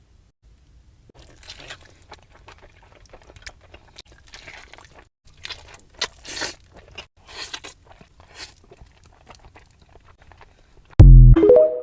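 Crunchy food being bitten and chewed close to the microphone, in short irregular crunches. Near the end a sudden, much louder sound with a deep low part and rising tones cuts in.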